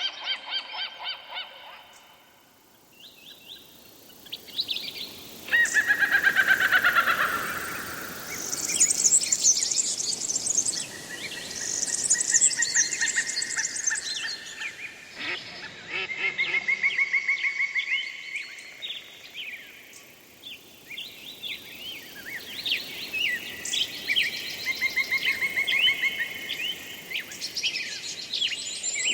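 Several songbirds singing together: chirps, whistles and rapid trills, including a falling trill a few seconds in and high, fast trills near the middle.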